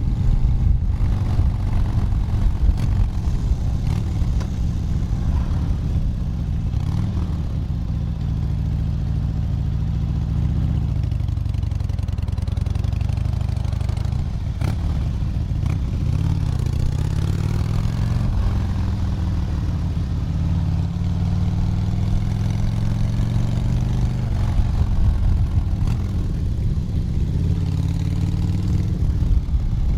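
Motorcycle engine running steadily at highway speed, its pitch dipping and rising a few times with the throttle, under an even hiss.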